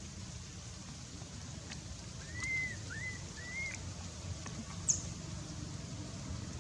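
Three short animal calls, each rising and falling, about two and a half seconds in, then a single sharp high chirp near five seconds, over a steady low rumble.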